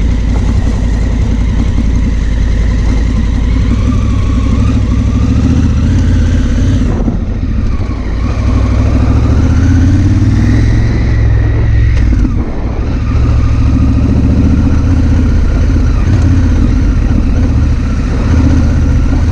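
Honda Africa Twin CRF1000L's parallel-twin engine running under way, its pitch rising as it pulls. The sound eases off about seven seconds in and dips briefly near twelve seconds before picking up again.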